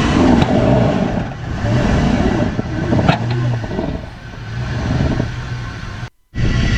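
Off-road vehicle engines revving and straining as a truck stuck in sand is pulled free with a recovery strap. The sound rises and eases several times, then cuts out briefly near the end.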